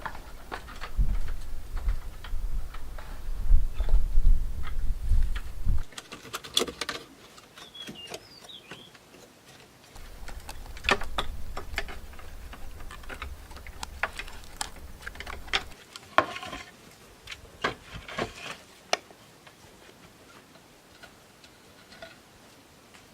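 Irregular knocks and clicks of hand building work with bamboo poles, with a low rumble under them for the first six seconds and again through the middle that starts and stops abruptly.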